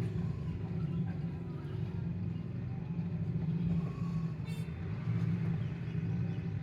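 A motor vehicle engine running steadily with a low hum, and a brief high-pitched squeak about four and a half seconds in.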